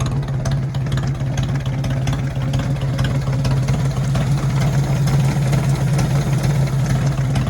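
Flathead engine of a Farmall M tractor idling steadily, with an even, fast run of firing pulses.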